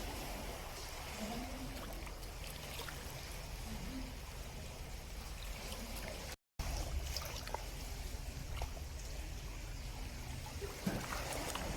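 Water trickling and lapping, a steady soft wash with a few faint ticks, cutting out completely for a moment about six and a half seconds in.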